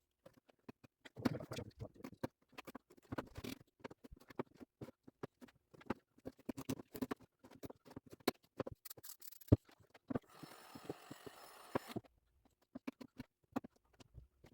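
Handling noise from work on a small homemade plastic gauge pod: scattered clicks, taps and scrapes, with a steady hiss lasting about two seconds near the end.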